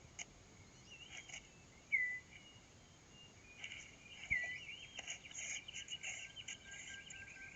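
Forest ambience: a bird repeating a short falling whistle about every two seconds, over a high steady buzz of insects that grows busier in the second half, with a few light clicks.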